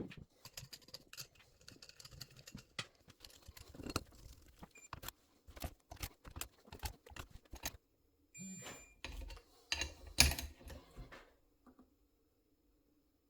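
Irregular light clicks and knocks of parts and tools being handled on a workbench, with a short electronic beep about eight and a half seconds in.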